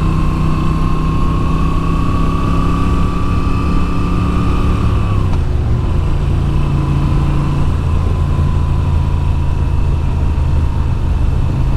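2022 Moto Guzzi V7's air-cooled V-twin engine running under way. Its pitch creeps slightly up, drops about five seconds in, then holds steady.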